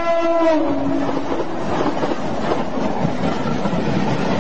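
Passenger train rushing past close by at speed: a steady loud rush and rumble of the passing carriages. Near the start, a brief pitched tone slides downward in pitch.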